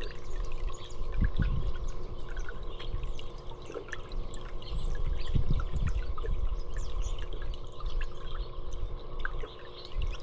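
Water trickling and dripping steadily, with many small drips throughout. Low rumbles of wind on the microphone come and go over it.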